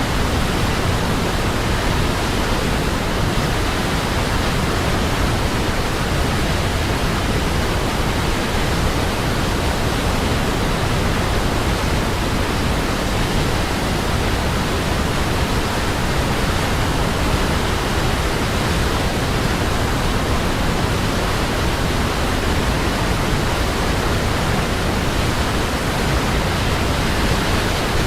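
Waterfall: a steady, unbroken rush of falling water, even throughout and heaviest in the low end.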